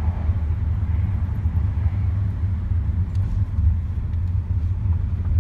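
A car's steady low rumble, even throughout with no passing swell.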